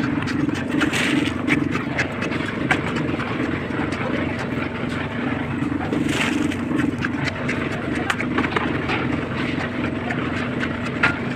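Small concrete mixer machine running steadily with a regular chugging pulse, with scattered sharp clicks and scrapes over it.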